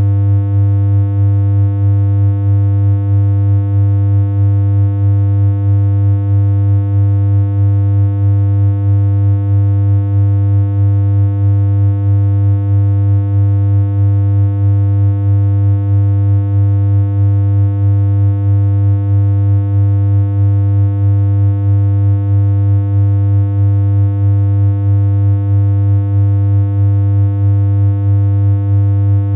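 Synthesized electronic hum from BeepBox: a single low note held unchanged, with a slight, quick regular pulsing in level.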